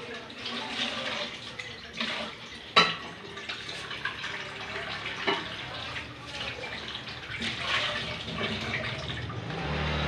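Close-up chewing of crunchy, juicy honeydew melon: irregular wet crunching, with a sharp click a little under three seconds in.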